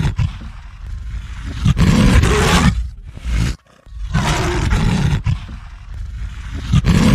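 Animal roar sound effect, played as a series of long, rough roars with short breaks between them.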